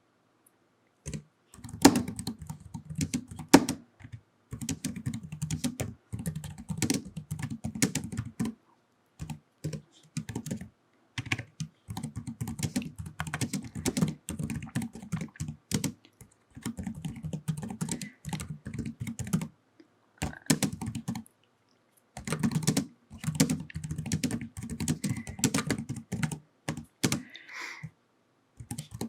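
Typing on a computer keyboard: quick runs of clacking keystrokes, each run a second or three long, broken by short pauses.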